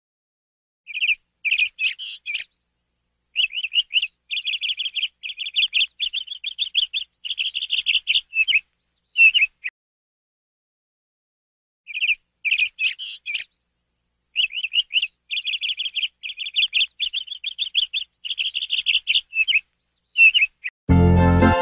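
Songbird singing in quick, high trilling phrases, the same passage of song heard twice with dead silence between. Music comes in near the end.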